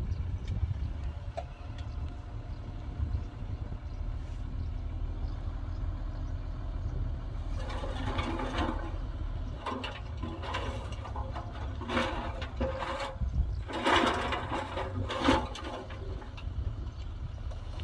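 Diesel engine of heavy earthmoving machinery running steadily low. In the second half come several louder bursts of noise, each lasting a second or so.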